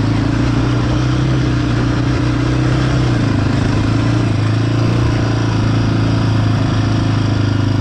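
Quad bike engine running steadily under throttle, its note shifting slightly about three seconds in.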